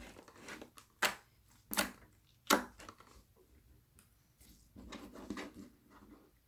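Slime being pressed and kneaded by hand, with three sharp clicking pops about three quarters of a second apart, then a softer squish about five seconds in.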